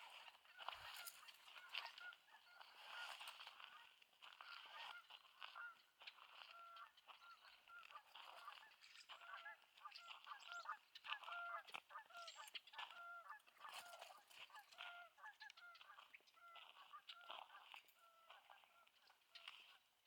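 Faint flock of waterbirds calling, many short repeated calls overlapping, thickest in the middle.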